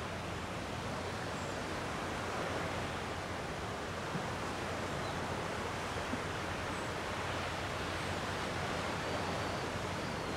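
Gentle sea waves washing against the shore in a steady, unbroken rush of surf, with a few faint high chirps now and then.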